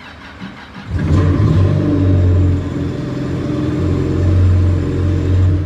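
Yamaha FZR 1800 WaveRunner jet ski engine starting on its electric starter and running for about four and a half seconds, with a dip in level partway through, then cutting off suddenly. The start circuit works again now that the corroded negative relay contact has been cleaned.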